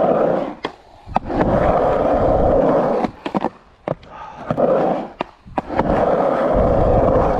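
Skateboard wheels rolling over concrete ramps in long stretches, with several sharp clacks and knocks of the board between runs.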